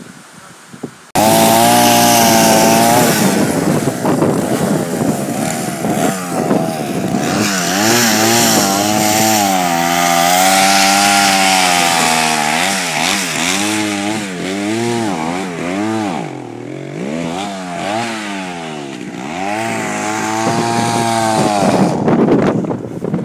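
Two-stroke chainsaw running at close range, starting abruptly about a second in. Its engine pitch rises and falls again and again, as the saw is throttled up and bogs under load in wood, until it drops away near the end.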